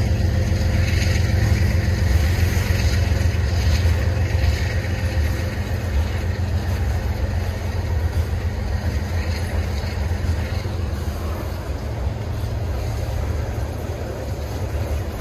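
Freight train rolling past: a steady low rumble of wheels on rail that slowly fades.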